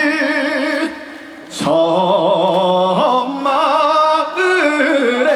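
Live trot song: a male voice sings a slow, drawn-out phrase with wide vibrato over band accompaniment. There is a brief quieter dip about a second in.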